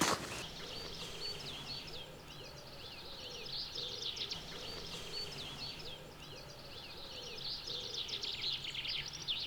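Small birds chirping, a run of short, repeated high calls over a faint outdoor background.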